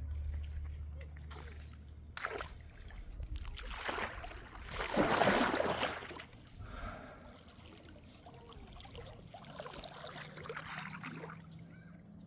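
Water splashing and sloshing in a swell that is loudest about five seconds in, followed by fainter, irregular splashes.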